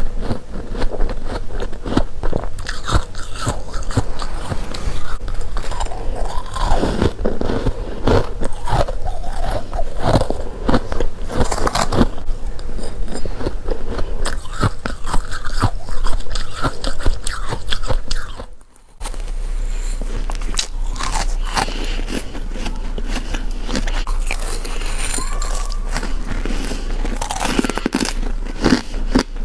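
Freezer frost being bitten and chewed close to the microphone: rapid, crisp crunches one after another, with a brief gap about two-thirds of the way through.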